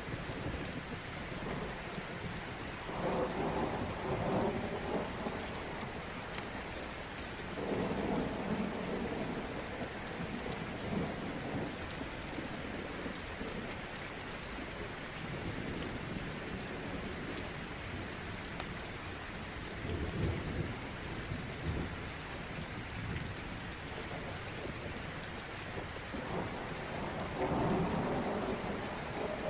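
Steady rain falling, with thunder rumbling up four times: about three seconds in, around eight seconds, around twenty seconds and near the end.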